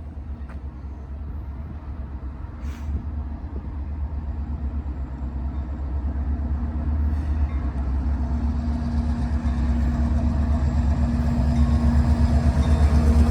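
Diesel locomotives of a CSX local freight approaching. Their low, pulsing engine rumble grows steadily louder, and a steady hum joins it about halfway through.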